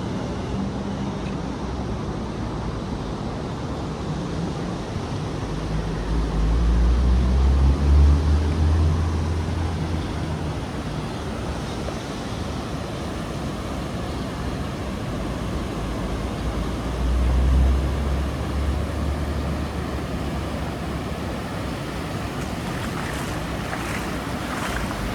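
Ocean surf washing onto the beach in a steady rush, with wind gusting on the microphone twice.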